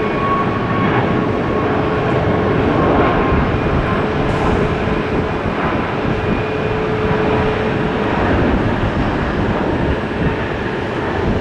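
Jet airliner engines running loud and steady: a broad roar with a whining tone over it.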